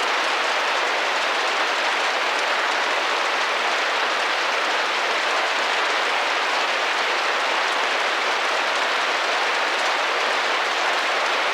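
Steady rain tapping against a window pane: an even, dense patter with no single drops or changes standing out.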